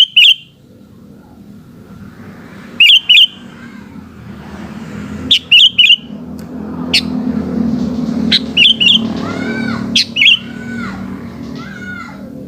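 Sooty-headed bulbul (kutilang) giving loud, short, sharp chirps in quick pairs and clusters every couple of seconds. Softer arched whistled notes come near the end. A low rumble swells in the background midway.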